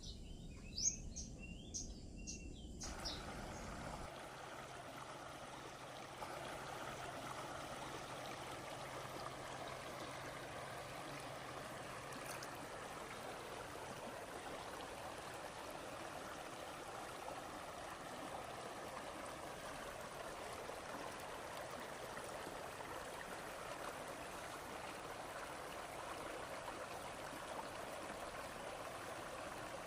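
A few high bird chirps in the first couple of seconds, then the steady rush of running water that continues unchanged.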